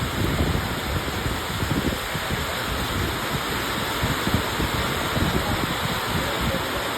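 Heavy rain pouring down steadily, with gusts of wind rumbling against the microphone.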